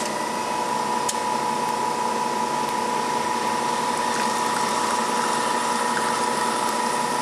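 Faema two-group espresso machine's pump running steadily while it brews a double shot: a continuous hum with a steady high tone.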